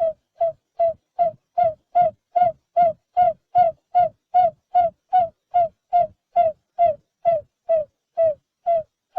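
Barred buttonquail giving its booming call: a long, steady series of short, low hooting notes, about two and a half a second, each one dipping slightly in pitch.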